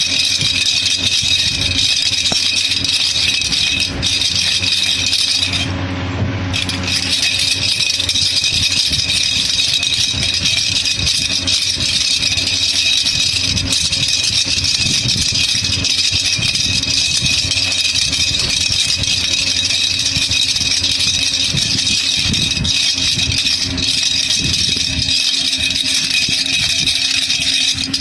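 Baby rattle (jhunjhuna) shaken continuously, a dense, steady rattle of small beads or pellets, briefly quieter about six seconds in.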